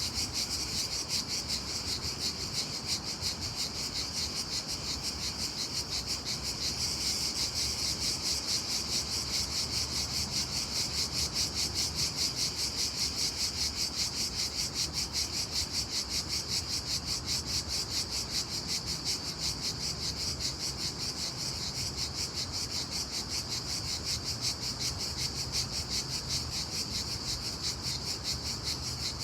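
Loud, dense chorus of insects that the recordist takes for crickets, chirping as one steady high-pitched drone that pulses evenly several times a second.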